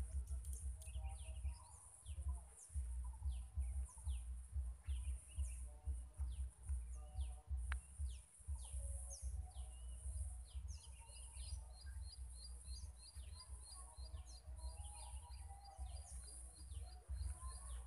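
Birds chirping in short falling whistles, with a quick run of repeated ticking notes in the second half. Underneath is a gusty low rumble of wind on the microphone.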